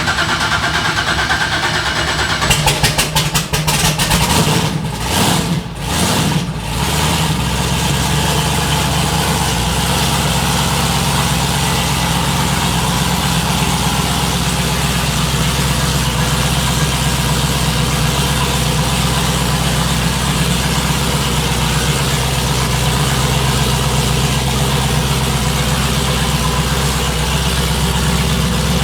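Twin-turbo F-body's engine running, rough and uneven with a few brief dips in the first several seconds, then settling into a steady idle about seven seconds in.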